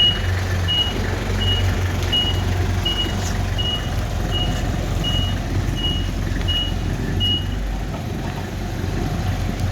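Vehicle reversing alarm beeping at an even pace, about one and a half short high beeps a second, over a running engine; the beeping stops about seven seconds in.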